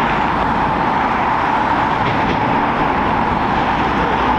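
Jet aircraft engines running with a steady, even noise that neither rises nor falls.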